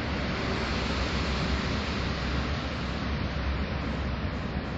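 An unexplained steady noise: a wind-like rush over a constant low hum, with no wind to account for it. It is heard as coming from one direction and is not moving the way a passing train would.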